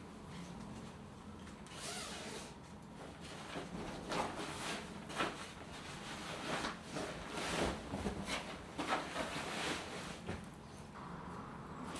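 Household cleaning and handling noises: a string of irregular short rustles and scrapes, busiest in the middle stretch.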